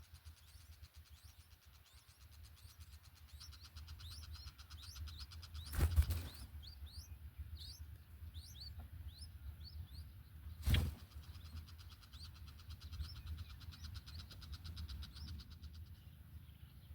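Small birds chirping at a nest: many short, high chirps, each sliding downward, in quick runs, with two loud thumps about six and eleven seconds in.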